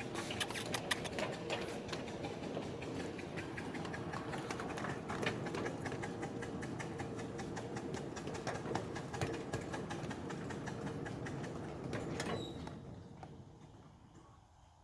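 Miniature live-steam railway train running on its track: a steady rumble with a dense run of clicks and rattles, dying away about twelve and a half seconds in.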